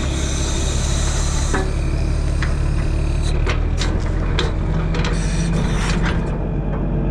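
Diesel engine of a 1964 Kenworth self-loading log truck running steadily while its loader handles a log, with scattered sharp clanks and knocks, most of them in the middle.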